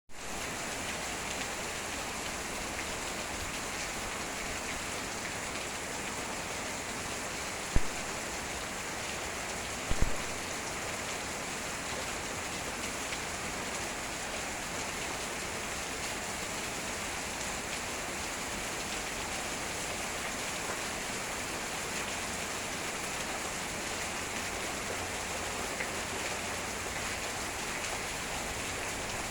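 Heavy rain falling steadily, a dense even hiss of drops. Two sharp knocks cut through it, about 8 and 10 seconds in.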